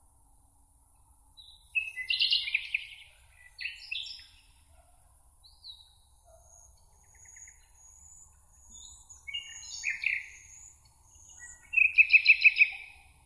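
Songbirds singing: short, chirpy song phrases from more than one bird, with a thin high series of notes in the middle. The loudest is a quick run of about seven repeated notes near the end. A faint steady high hiss lies underneath.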